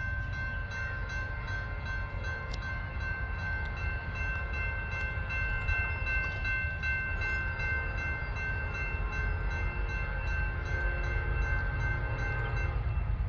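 Low rumble of an approaching Norfolk Southern intermodal freight train at a grade crossing, under a steady chord of high warning tones that stops just before the end.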